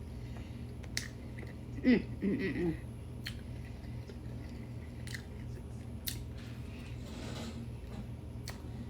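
Close-up mouth sounds of a person chewing barbecue rib meat: scattered sharp wet clicks, with a short voiced murmur about two seconds in, over a steady low hum.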